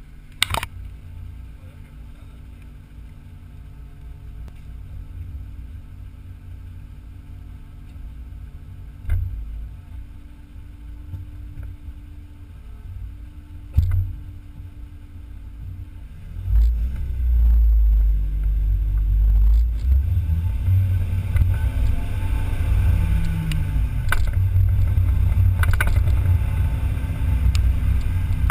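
BMW Z3 engine idling with a steady low hum, broken by a few sharp knocks. About sixteen seconds in it turns into a much louder rumble that rises and falls as the car pulls away and drives off, with wind and road noise building toward the end.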